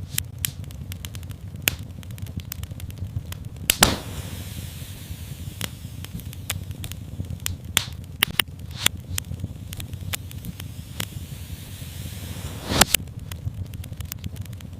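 Wood fire in a fireplace crackling, with irregular sharp pops and snaps over a low rumble and a soft hiss. Two louder pops come about four seconds in and near the end.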